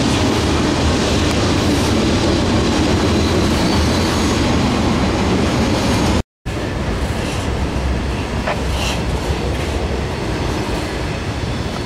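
Freight train of loaded trash cars rolling past, the steel wheels running continuously over the rails, with a few short high-pitched squeaks in the second half. The sound drops out completely for a moment about six seconds in.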